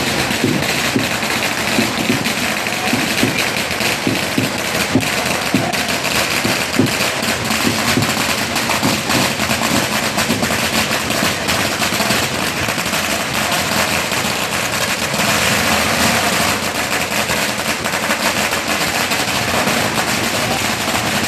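Firecrackers going off in a long, dense string of rapid cracks, with no let-up.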